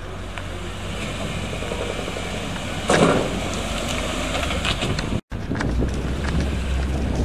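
Suzuki Jimny's engine running at low speed as the small 4x4 crawls over a tilting ramp obstacle on a paved course, with one loud thump about three seconds in.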